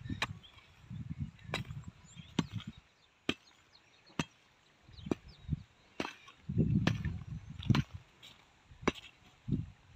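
Hand hoes striking the soil in repeated digging strokes, about one sharp blow a second with a dull thud under each.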